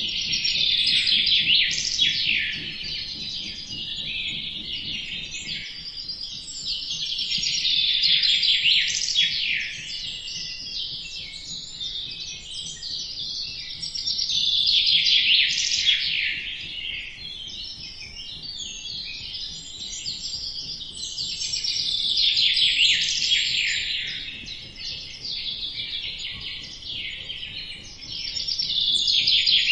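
A dense chorus of small birds chirping and trilling together, high-pitched and busy, swelling louder and fading back about every seven seconds.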